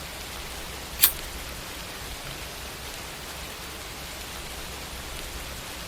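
Steady background hiss with one sharp click about a second in.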